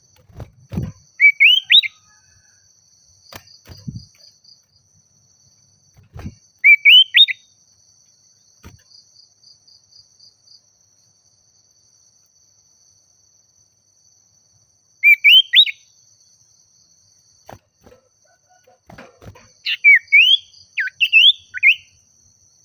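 Common iora (sirtu/cipoh) calling in four short bursts of quick, rising whistled notes; the last bout, near the end, is the longest. This is the energetic 'gacor' calling that keepers play to provoke a rival bird.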